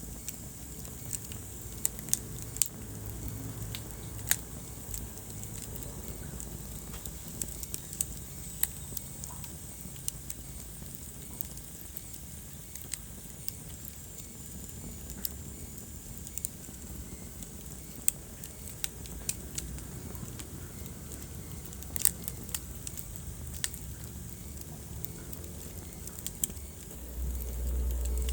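Wood fire burning in a fireplace, crackling with irregular sharp pops over a steady low rush of flame. A deeper low rumble swells near the end.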